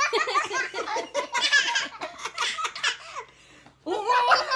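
A baby and a toddler laughing in quick, breathy bursts. The laughter breaks off briefly a little over three seconds in, then starts again.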